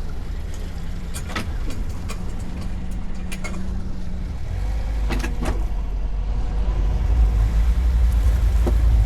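Boat engine running underway, a steady low rumble with wind and water noise, growing louder from about halfway through.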